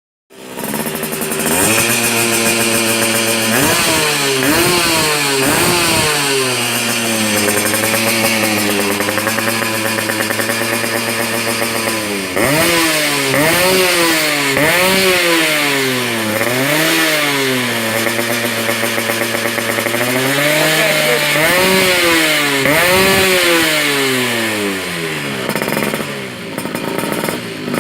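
Yamaha F1Z R two-stroke single-cylinder engine running through a hand-built aftermarket exhaust, ticking over at a steady idle and revved in short blips over and over, the pitch rising and dropping back each time. A few quick revs come early, then a steady stretch, then a long run of repeated blips.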